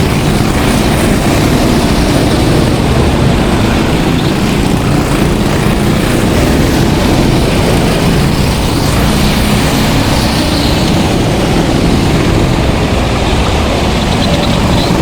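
Several go-kart engines running together as karts race around the track, a steady, dense engine noise.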